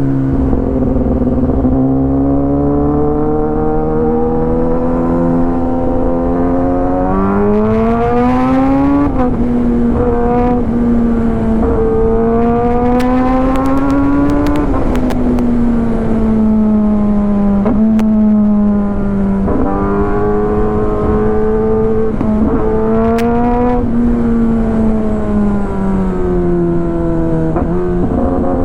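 Kawasaki ZX10R's inline-four engine through an Arrow full exhaust system, running under way. Its pitch climbs twice, about a quarter of the way in and again near the middle, as the throttle is opened, then falls away as it eases off, with a few brief breaks in the note later on.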